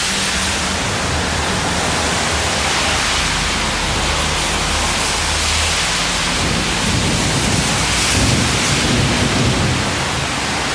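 Steady, loud rush of water in a downpour, with a low steady hum under it for the first six seconds, giving way to a deeper rumble.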